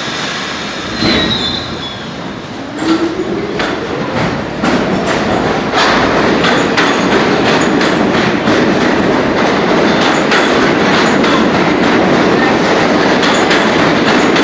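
New York City subway train pulling out and picking up speed: its traction motors give a rising whine, a brief high wheel squeal comes about a second in, and the wheels click over the rail joints faster and faster.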